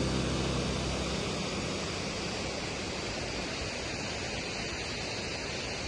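Steady rushing roar of a waterfall. A low hum underneath stops about a second in.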